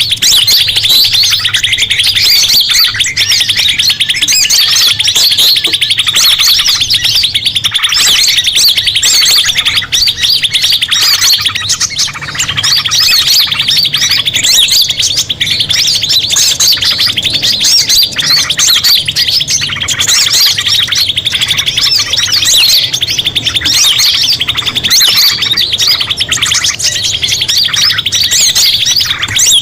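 Dense, continuous chorus of small songbirds chirping and twittering rapidly over one another, from a bird-lure recording mixing several species such as sunbirds, prinias and minivets.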